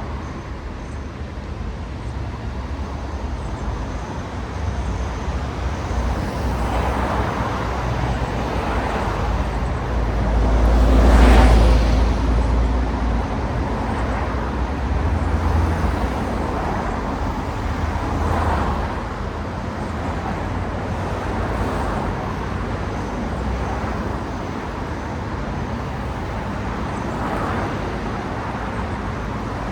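Steady road traffic, with cars passing one after another, each swelling and fading away. The loudest pass, with a deep rumble, comes about eleven seconds in.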